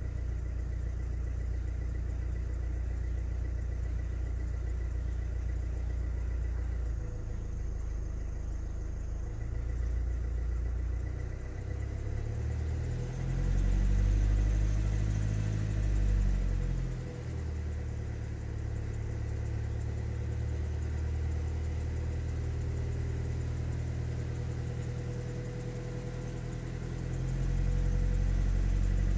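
Hyundai Tucson's 1.7 CRDi four-cylinder turbodiesel engine running with a ticking noise that the owner cannot identify, said to be clearest after revving. It idles, is revved up and back down about halfway through, and runs louder near the end.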